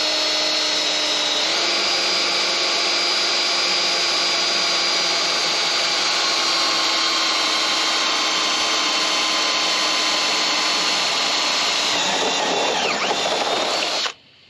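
Electric drill running steadily under load, drilling out spot welds in sheet metal with a step bit. Its whine steps up slightly about a second and a half in, wavers near the end, then stops.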